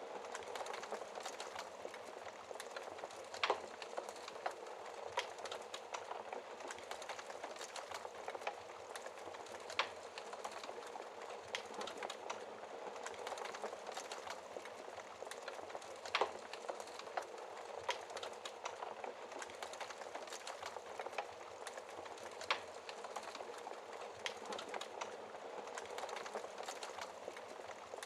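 Wood fire burning in a fireplace: a steady soft hiss of flames with frequent crackles and sharp pops, a few louder snaps scattered through.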